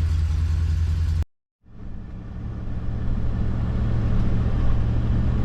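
Steady low engine and road drone of a moving RV, heard from inside the cab. It breaks off abruptly about a second in, is silent for a moment, then fades back in and runs steadily.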